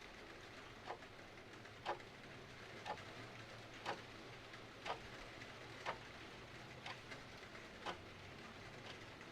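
Clock ticking about once a second over a steady, faint hiss of rain.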